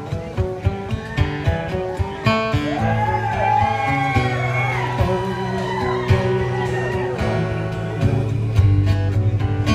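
Acoustic guitar playing an instrumental passage of plucked notes over a steady bass line, with a gliding, wavering melody line arching over it through the middle.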